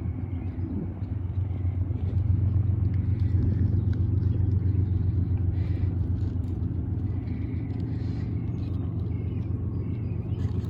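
CSX diesel freight train rolling past, a steady low rumble of locomotive engines and rolling cars.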